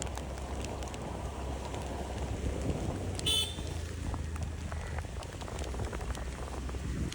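Steady outdoor background noise with a low rumble and a short, high-pitched toot about three seconds in.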